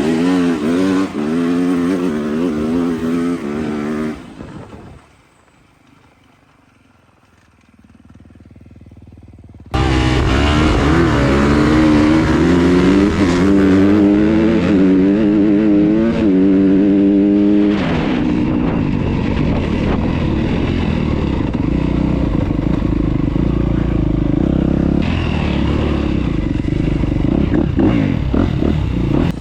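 ATV engine revving up and down under throttle. About five seconds in the sound drops away to a quiet stretch, then the engine comes back loud and sudden, revving hard before settling into a steadier run.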